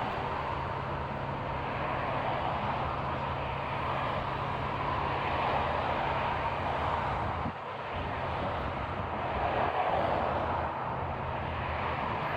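Steady mechanical running noise, a constant hiss and rumble over a low hum, with a brief drop in level about seven and a half seconds in.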